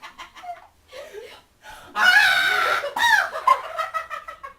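High-pitched vocal squeals and giggling, soft and broken at first, then loud from about halfway through.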